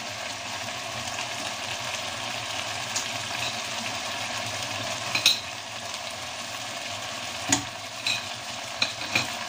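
A pot of bihon with freshly added shredded cabbage sizzling steadily on the stove, with a few sharp clicks.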